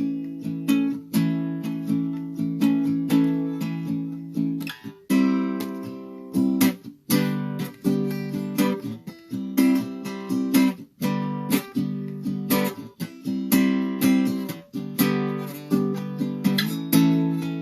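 Acoustic guitar strummed in a loose, improvised riff, chords struck and left to ring in an even rhythm.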